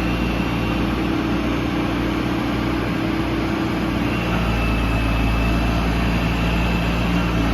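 Diesel engine of an HZM 788 backhoe loader running steadily, with a faint high whine joining about four seconds in.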